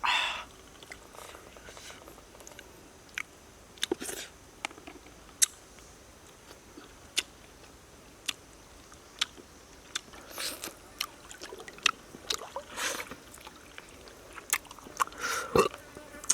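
A person eating steamed frog, chewing and biting, with irregular sharp clicks and short crunching bursts.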